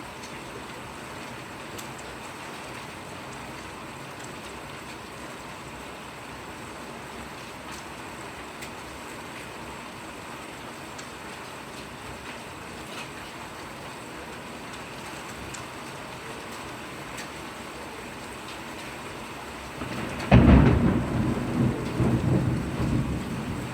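Steady rain falling, with a loud clap of thunder about twenty seconds in that rumbles on in rolling waves to the end.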